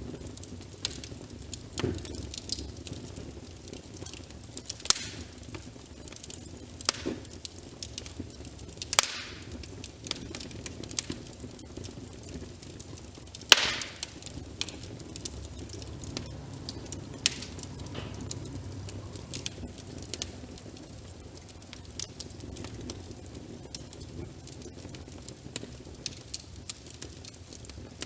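Wood fire crackling, with irregular sharp pops and snaps, the loudest about halfway through. Underneath is a soft, steady wash of rain.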